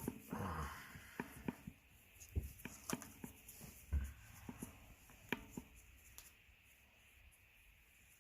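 Scattered light clicks, taps and scraping of hand work on a small engine part, dying away after about six seconds.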